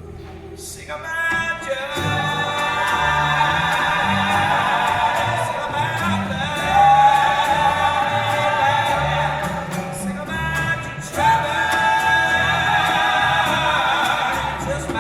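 A live band playing with singing over a bass line. The voices hold long notes, pause briefly about ten seconds in, then come back.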